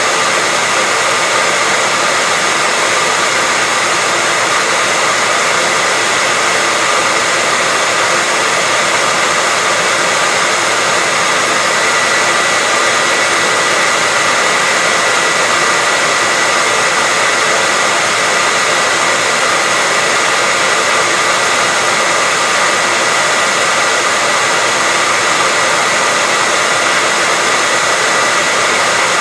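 Hair dryer running continuously: a steady, even rush of air with a faint high whine from its motor and fan.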